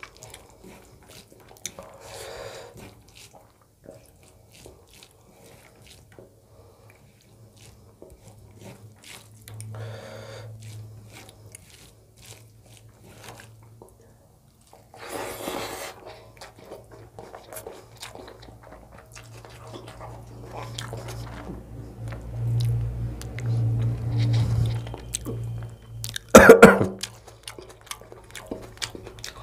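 Close-miked eating sounds of a person chewing a mouthful of rice and chicken curry: soft, wet chewing with small mouth clicks. A short, loud noise comes near the end.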